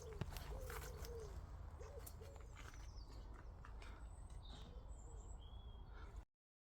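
Pigeon cooing, a run of soft low coos, with a small bird giving a few high chirps later on. The sound cuts off abruptly near the end.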